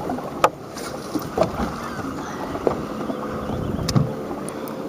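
Wind and waves on a small fishing boat: a steady rush of wind and water with several sharp knocks against the hull.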